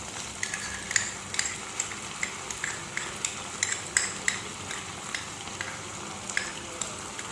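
Chili paste, ketchup, ginger, garlic and onion frying in hot oil with a steady sizzle, while a spatula stirs the mixture and knocks against the pan in regular clicks, two to three a second at first and sparser near the end.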